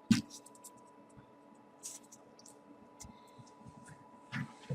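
Folded paper origami pieces rustling and clicking as they are slotted together by hand, with a sharp paper crinkle just after the start as the loudest sound and a few more rustles near the end. A faint steady tone runs underneath.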